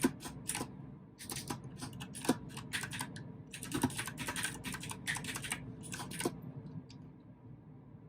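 Mechanical keyboard with clicky blue switches being typed on in quick, uneven bursts of keystrokes. The typing stops about six seconds in.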